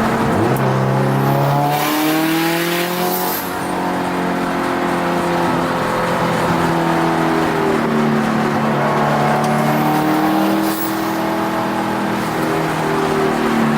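Turbocharged Subaru WRX STi flat-four engine heard from inside the cabin under hard driving, revs climbing and falling as the car is pushed around the track. The sound dips briefly about three and a half seconds in and again near eleven seconds.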